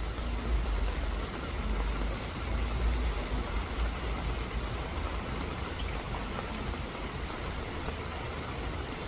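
Steady rain falling, an even hiss with a deep low rumble beneath it.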